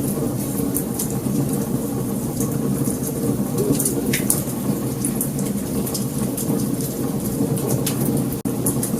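Wood fire burning: scattered sharp crackles and pops over a steady low rush of flame. The sound cuts out for a moment near the end.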